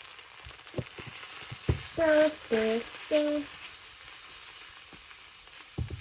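Chopped onion and red curry paste sizzling in a wok, stirred and scraped with a wooden spoon, with a few light knocks of the spoon against the pan. About two seconds in, three short pitched notes sound over the sizzle.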